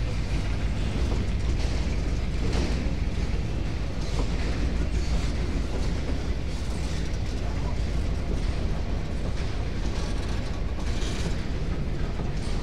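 Empty freight train's boxcars rolling past close by: a steady low rumble of steel wheels on the rails, with occasional metallic clanks and creaks from the cars.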